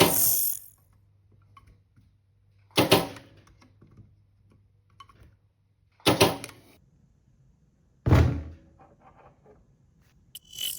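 A series of sharp mechanical clacks and thuds, about one every two to three seconds, each dying away within about half a second; the one near the middle is the deepest thud.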